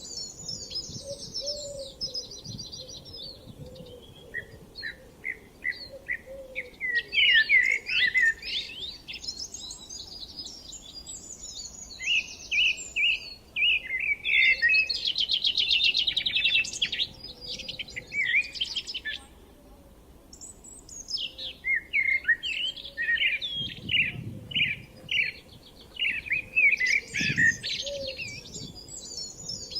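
Several songbirds singing, with overlapping song phrases, chirps and fast trills that come and go, over a soft rural background.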